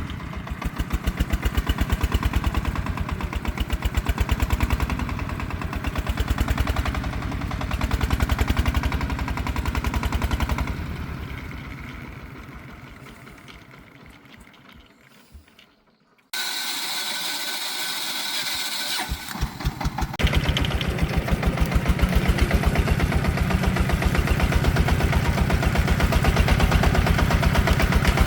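Single-cylinder diesel engine of a công nông agricultural truck running with an even pulsing beat. It fades away over several seconds from about ten seconds in, then after a sudden hiss the engine beat starts up again and runs steadily.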